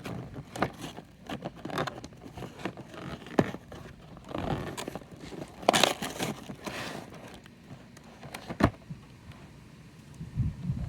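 Toy packaging being opened by hand: irregular scraping, rustling and crinkling with scattered clicks, including a sharp click about two thirds of the way through.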